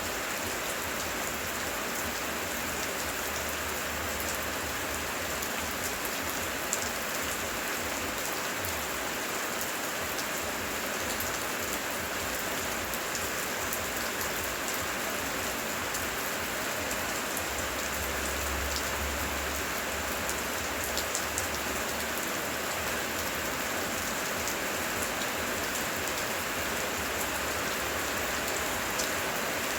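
Heavy, steady rain hissing, with scattered close drops ticking on a surface. A low rumble rises underneath twice, the second time near the middle.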